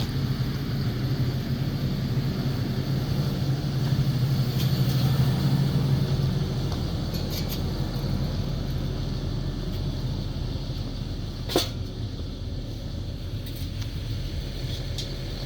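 Steady low vehicle rumble of engine and road noise, swelling a little about a third of the way in, with one sharp click about two-thirds through.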